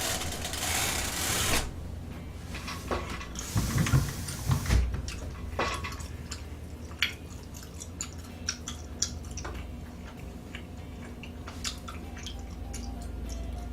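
A person eating: wet chewing with small scattered clicks, with two short rustling hisses in the first few seconds.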